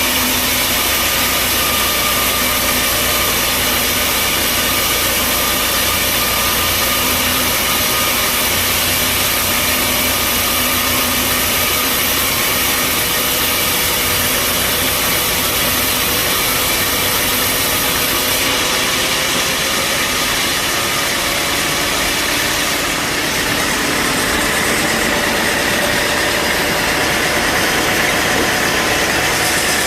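Bandsaw sawmill running steadily with a loud machine noise, its tone shifting about 18 seconds in and again about 23 seconds in.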